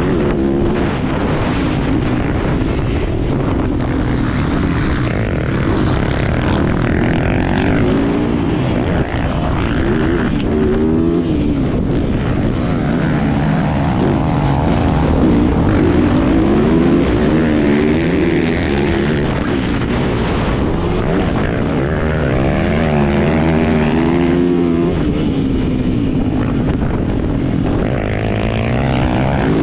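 Yamaha YZ450F motocross bike's four-stroke single-cylinder engine revving hard, its pitch climbing and dropping over and over as the throttle is worked, with no let-up.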